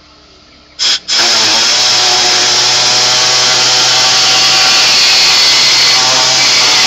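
Air-powered cutting tool, blipped once briefly about a second in, then running steadily with a loud hissing whine as it trims a hole in the dash panel.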